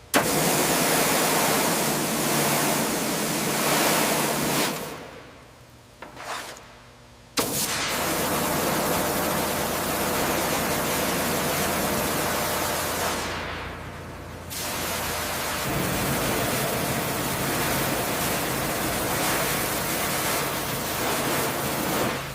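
Loud, steady hiss of a high-pressure spray with a machine hum beneath. It cuts out about five seconds in for a couple of seconds, and thins out again for a moment later on.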